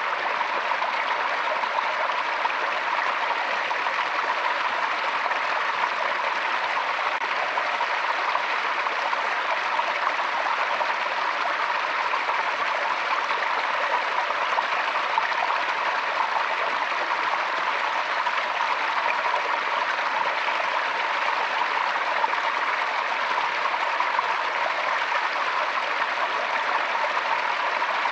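Forest stream flowing: a steady rush and trickle of water over stones.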